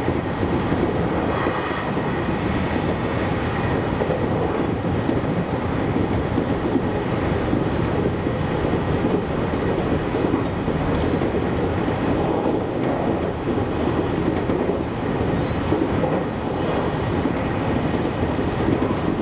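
JR Kyushu 813 series electric train running at speed, heard from inside the driver's cab: a steady rumble of wheels on rails.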